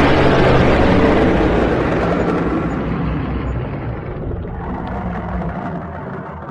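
Dragon sound effect: a loud, rough rumble that fades slowly over several seconds.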